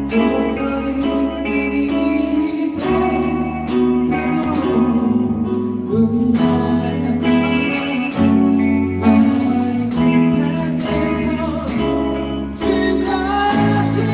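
A live rock band plays a rock-ballad cover: guitar and bass notes held over drum and cymbal hits that come about once or twice a second.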